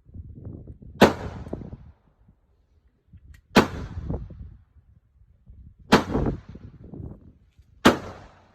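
Four shots from a Ruger Super Redhawk .44 Magnum revolver firing Underwood full-power factory loads, spaced about two to two and a half seconds apart, each followed by a short rolling echo.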